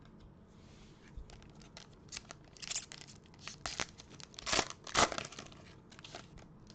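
A trading card pack's wrapper being torn open and crinkled by hand, in a run of irregular rips and crackles that are loudest near the end.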